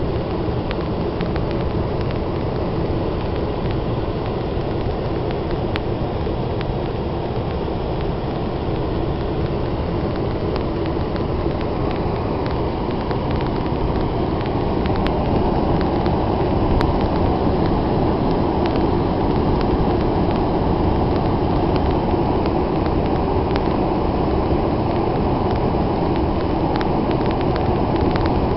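Blizzard wind buffeting the camera microphone: a steady low rumble that grows a little louder about halfway through.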